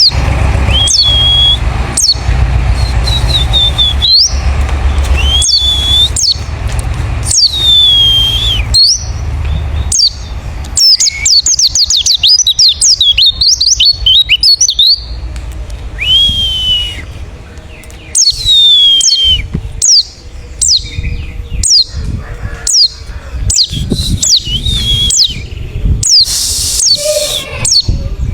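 Wild white-eye (pleci) calling: a repeated high, downward-sweeping call about every second or two, breaking into a quick twittering song in the middle. A low hum runs underneath for the first ten seconds or so.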